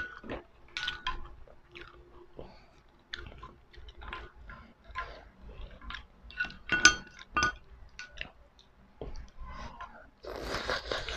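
People eating spicy seafood ramen close to the microphone: irregular chewing and mouth smacks, with a metal spoon and chopsticks clinking against a ceramic bowl and a glass dish, including a few ringing clinks a little past halfway.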